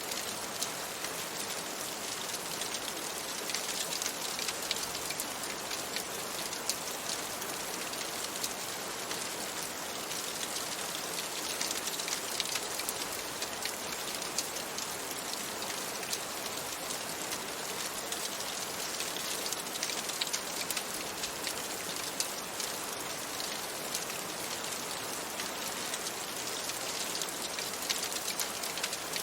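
Steady rain on a window with a dense patter of small ticks, mixed with the crackle of a fireplace.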